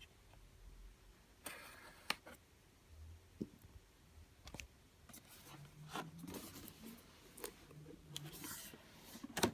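Faint rustling, scraping and scattered clicks of a cardboard retail box and its packaging being handled and opened.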